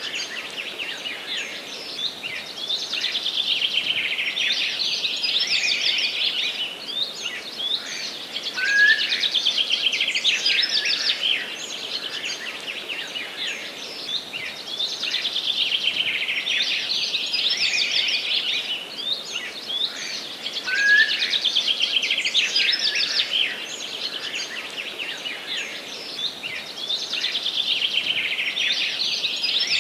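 Forest songbirds singing in a dense, continuous chorus of high chirps and rapid trills, with a short rising call twice.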